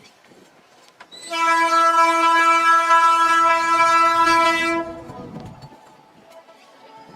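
Train horn sounding one long, steady blast of about three and a half seconds, starting about a second in. Faint rumbling and clicking of the moving train lie around it.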